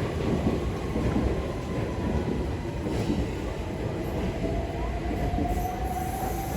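c2c Class 357 Electrostar electric multiple unit pulling out of the station, a steady rumble of wheels on track with a faint whine that rises slowly in pitch as it gathers speed.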